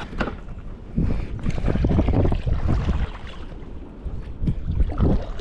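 Wind buffeting the microphone in gusts, a low rumble that swells about a second in and again near the end, over water sounds around a canoe.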